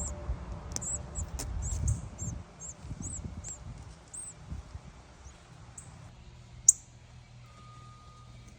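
Small birds chirping: a run of short, very high-pitched chirps, about two to three a second, thinning out after about four seconds. A low rumble underlies the first two seconds, and a single sharp click about seven seconds in is the loudest sound.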